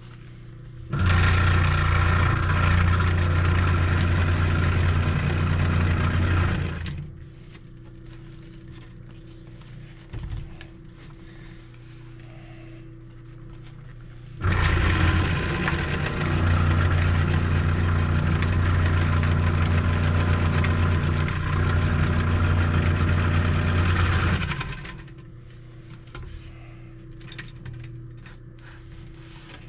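1949 Singer 151W3 walking foot sewing machine running and stitching a seam in two runs, the first about six seconds long starting a second in, the second about ten seconds long from the middle of the stretch. A faint steady hum continues between the runs.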